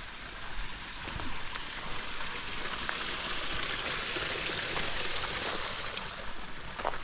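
Steady rush of running water, like a stream, swelling over a few seconds and then easing off, with a few faint ticks.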